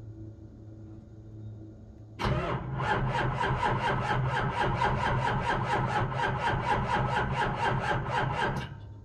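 2001 Ford 7.3 Powerstroke V8 diesel cranking cold on the starter, an even chugging of about four to five compressions a second for some six seconds. Then the cranking stops without the engine catching: a cold no-start.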